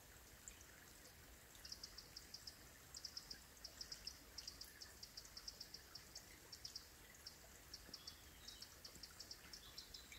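Faint outdoor quiet with a small bird calling: quick runs of three or four high, sharp chips, repeated again and again over a soft steady hiss.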